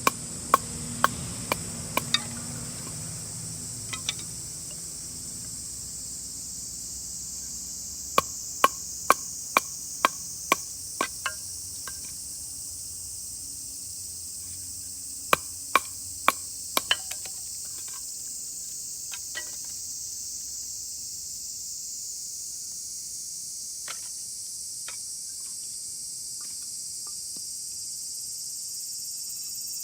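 Runs of sharp wooden knocks, about two a second, as a knife is driven through firewood with a wooden baton (batoning): three runs of strikes, then a few lighter taps. A steady high drone of insects runs underneath.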